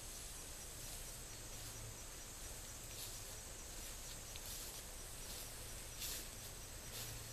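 Faint outdoor background: a steady hiss with a high, steady whine and a few faint clicks.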